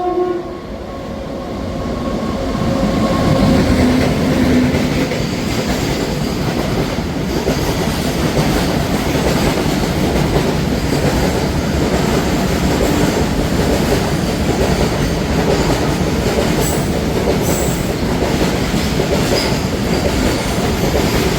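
An Indian Railways train horn sounding, cutting off about half a second in. The train then passes close by with a steady loud rumble of wheels on rail and the clickety-clack of its cars over the rail joints.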